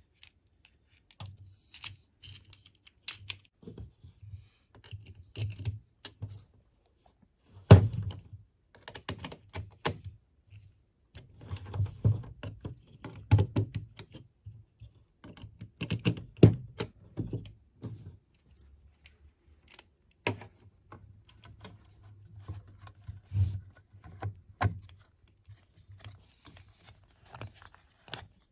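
Hands fitting an LED light ring onto a Wet Sounds tower speaker: irregular clicks, taps and knocks of plastic and metal parts being handled, with the loudest knock about eight seconds in.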